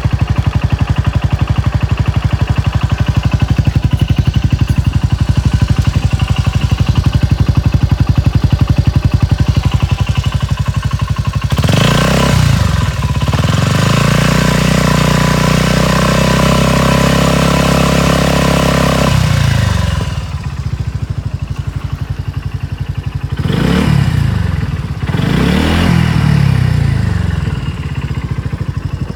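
Suzuki Skywave 250 SS scooter's single-cylinder engine idling with an even pulse, then revved up and held at higher revs for about seven seconds before dropping back to idle. Two shorter blips of the throttle follow near the end, and it settles to idle again: an engine running check.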